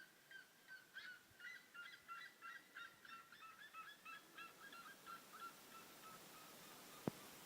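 Birds calling faintly in a rapid run of short repeated notes, several a second, that thins out and stops about six seconds in. A single sharp click near the end.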